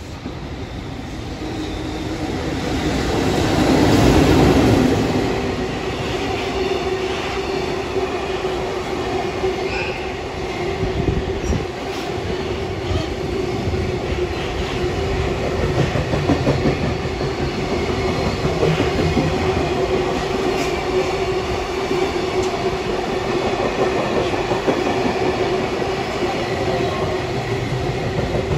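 Freight train hauled by a JR EF65 electric locomotive passing at speed. The locomotive comes in and is loudest about four seconds in, followed by a long string of container wagons rolling past in a steady rumble with a held tone.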